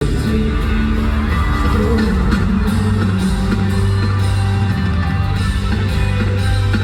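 Live pop-rock band music at a concert, loud and steady, with guitar and a heavy bass line.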